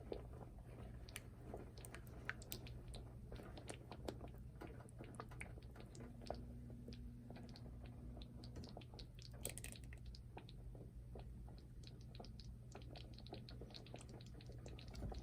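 Chicken handi curry, heavy cream with separated oil, simmering in the pot: faint, irregular small pops and crackles over a steady low hum.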